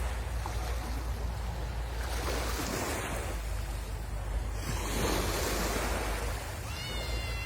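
Sea waves washing and breaking on the shore, the noise swelling and easing, with wind rumbling on the microphone. A short high-pitched call sounds near the end.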